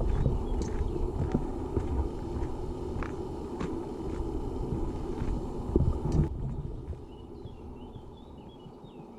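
Footsteps on a dirt and gravel hiking trail, with wind rumbling on the microphone. The wind noise drops away suddenly about two-thirds of the way through, leaving faint high chirps.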